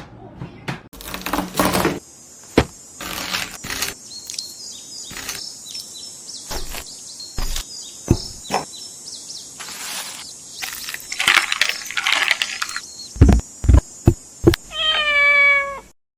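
A series of knocks, rustles and several loud thumps, then a domestic cat's single drawn-out meow near the end.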